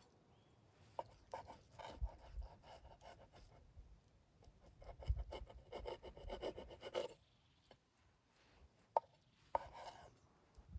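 A knife cutting on a wooden board: a run of quick rasping, sawing strokes, with a few sharp clicks near the end.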